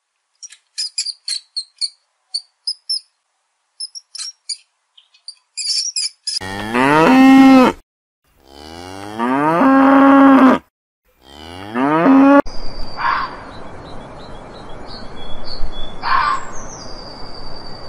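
Cattle mooing: three long, loud moos one after another, starting about six seconds in, each rising in pitch and then holding steady. Before them, a rapid scatter of short high clicks and squeaks. After them, a steady outdoor hiss with two short rising calls and thin high whistling tones.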